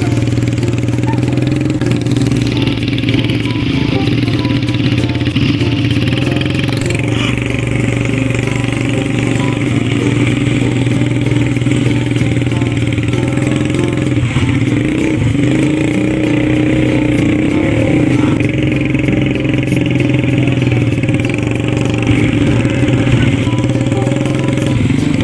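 Small ATV engine running steadily under way, its pitch dipping briefly about halfway through.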